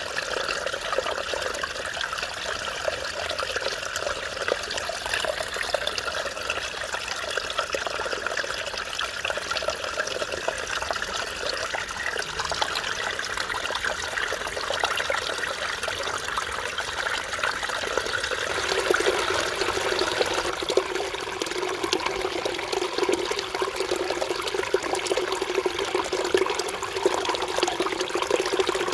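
Mountain stream water flowing and burbling over rocks, a steady rushing babble. About 18 s in the sound shifts, taking on a deeper, steady gurgle.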